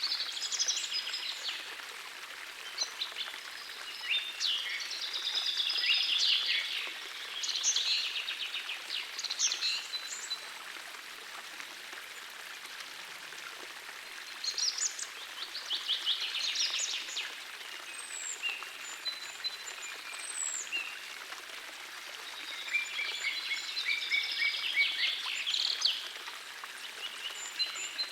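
Songbirds singing over the steady rush of a small forest stream. The song comes in several bursts of rapid chattering notes, with a few high, sliding whistles around the middle.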